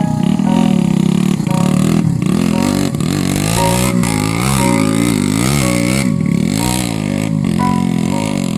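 Trail motorcycle engines revving hard, rising and falling again and again, as bikes struggle up a steep, slippery climb.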